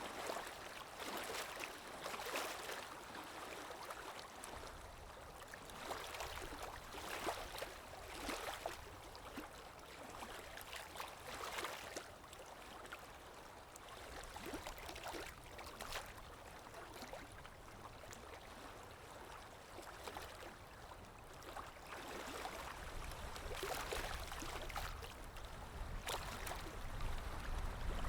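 Underwater ambience: continuous water noise that swells in irregular surges every second or two, with a low rumble growing stronger near the end.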